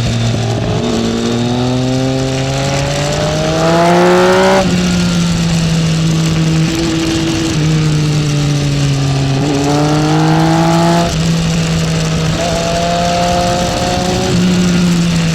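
Triumph Speed Triple's inline three-cylinder engine under hard acceleration, revs climbing and then dropping sharply at upshifts about four and a half seconds in and again about eleven seconds in, with a steady rushing noise underneath.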